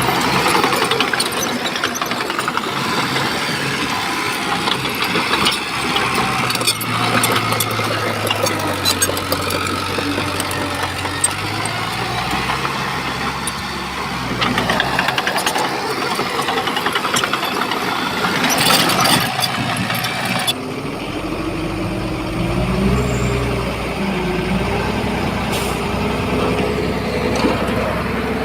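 Shantui bulldozer's diesel engine running under load, with clatter and knocks of tracks and stone. About two-thirds in, the sound changes suddenly to a steadier engine note with a slowly rising whine.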